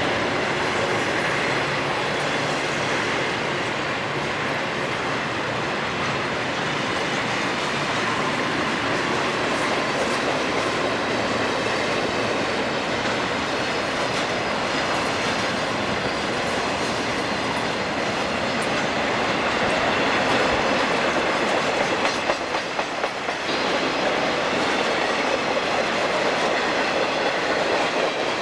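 Southern Pacific freight train pulling out: a long string of boxcars rolls steadily past with wheels clicking over the rail joints, under the diesel locomotives working ahead.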